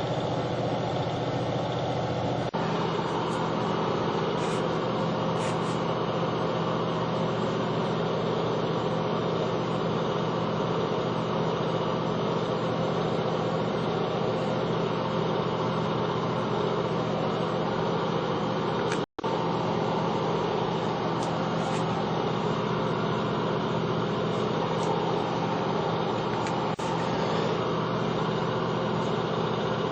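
A steady mechanical hum from a running machine, even throughout, with a momentary break about 19 seconds in.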